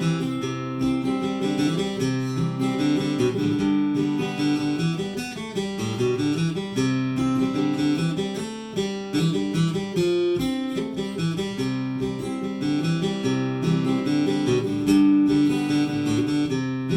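Acoustic guitar strummed and picked, an instrumental break between sung verses.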